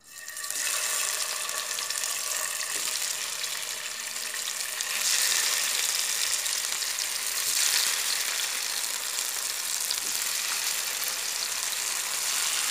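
Steamed spinach-and-chana-dal rolls (palak vadi) sizzling in a little hot oil in a shallow frying pan as they are laid in one by one. The hiss grows louder about five seconds in, as more rolls go into the oil.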